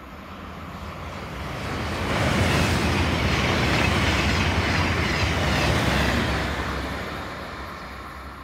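Copenhagen S-train, an electric commuter train, passing on the track: rail and running noise swells to a peak for about four seconds, then fades away.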